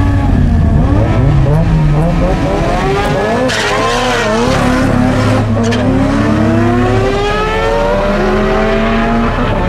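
Performance car engines accelerating hard under full throttle, their pitch dropping and climbing with each gear change and then rising in one long pull near the end. A burst of hissing and squealing noise cuts in around the middle.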